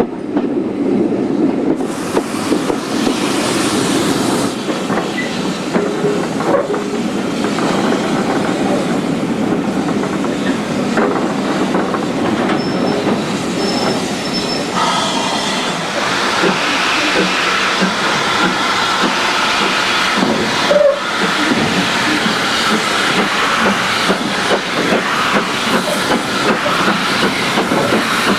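Passenger train behind a steam tank locomotive on the move: steady running noise with the clickety-clack of the wheels over rail joints and some steam hiss.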